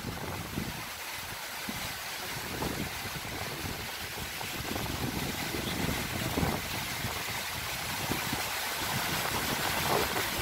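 Strong gusty wind with no rain, a steady rushing noise that grows slightly louder toward the end.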